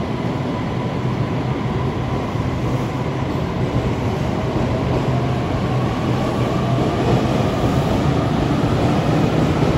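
Electric train running at a station platform, a steady rumble with a faint motor whine that rises slowly in pitch as it gathers speed.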